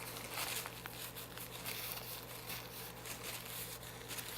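Takeout food packaging being handled, crinkling and rustling with irregular crackles throughout.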